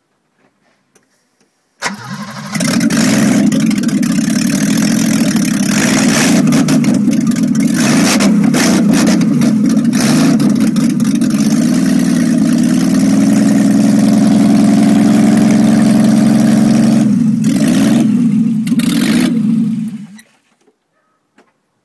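BMW E28 520i's M20 inline-six started on open exhaust with no silencer: a brief crank about two seconds in, then it catches and runs loud and steady, and is switched off shortly before the end.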